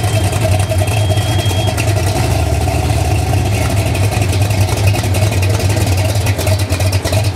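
Engine of a classic first-generation Chevrolet Camaro running at low speed as the car rolls slowly by, a loud, steady low rumble.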